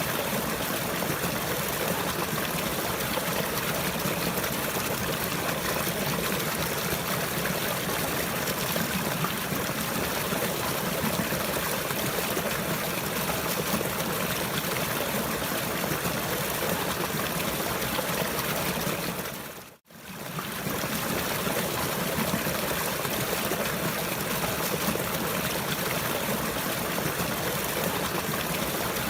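Steady trickling, running water. It fades out to silence for a moment about twenty seconds in, then comes back.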